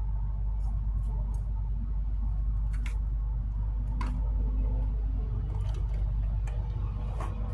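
Steady low rumble with a few scattered small clicks and handling noises.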